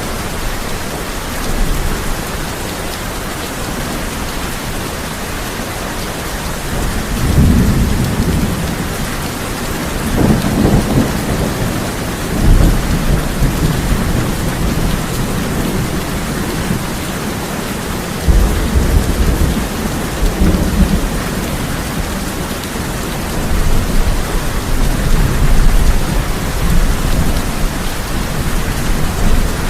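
Heavy rain falling steadily on a tin roof, with thunder rumbling low several times: around a quarter of the way in, twice more just before the middle, and again past the middle and toward the end.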